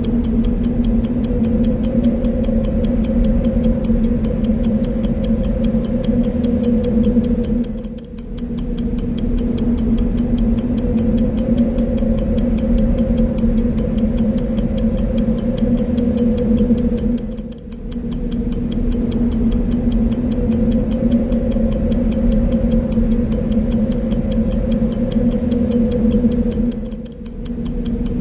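A clock ticking in a fast, even rhythm over a steady, low wind sound; the wind dips briefly three times.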